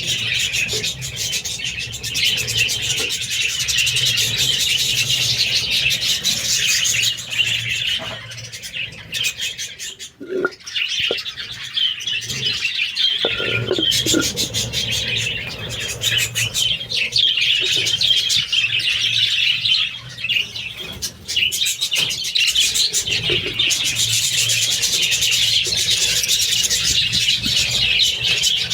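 A flock of budgerigars chirping and chattering continuously, with a brief lull about ten to thirteen seconds in.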